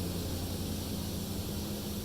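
Automatic car wash running, heard from inside the car: a steady hiss over a low, even hum.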